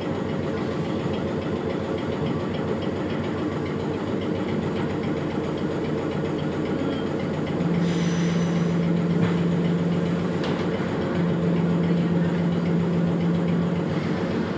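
Interior running noise of an electric commuter train slowing into a station: a steady rumble of wheels and motors. About halfway in, a low steady hum sets in, breaks off briefly and returns until near the end, and a short hiss sounds near the middle.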